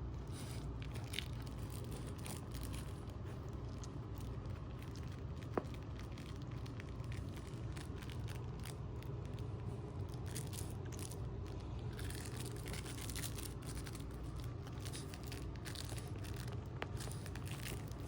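A pet chewing and mauling a crinkly toy pig: rapid, irregular crinkling and crunching, with one sharp click about halfway through.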